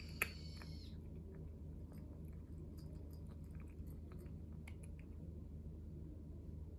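A cat chewing and crunching food, with small irregular clicks and crunches. Near the start there is a sharp click and a brief high-pitched squeak.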